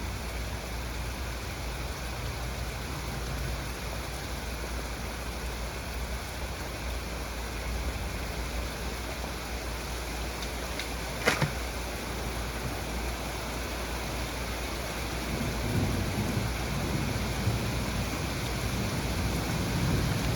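Heavy rain falling steadily in a thunderstorm. A single sharp crack comes about eleven seconds in, and a low rumble of thunder rolls in about fifteen seconds in and grows louder toward the end.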